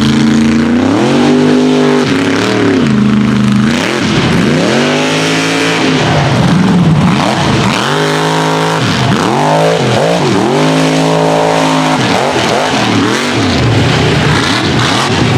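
Mega truck engine revving hard and dropping back again and again during a race run, its pitch climbing and falling in repeated sweeps every second or two.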